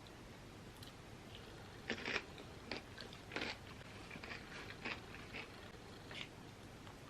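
A person biting and chewing crunchy chips close to the microphone: a series of short, crisp crunches, thickest from about two to five seconds in.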